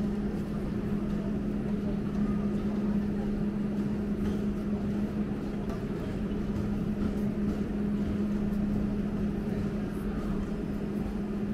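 Steady hum from a train standing at a station platform, over a constant low rumble of station noise.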